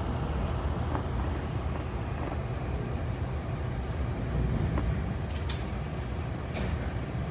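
Metra commuter train in motion, heard from on board: a steady low rumble of wheels on rails, with three sharp clicks in the last two seconds.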